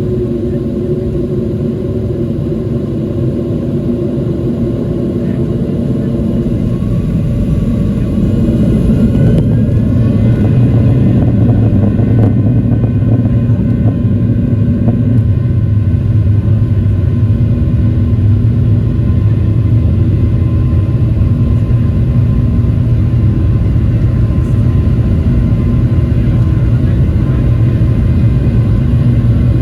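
Boeing 737-700's CFM56 jet engines and airframe rumbling steadily, heard from inside the passenger cabin. The rumble grows louder about eight seconds in.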